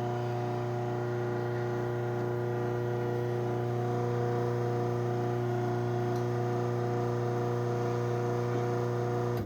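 Craftsman 53930 garage door opener's motor running through its closing cycle: a steady electric hum with a low buzzing tone that cuts off suddenly at the end of travel.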